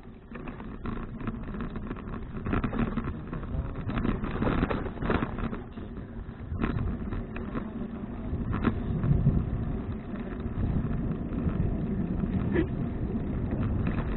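Road and wind noise picked up by a bicycle-mounted action camera while riding: a rumbling hiss that rises and falls, with a few sharp clicks.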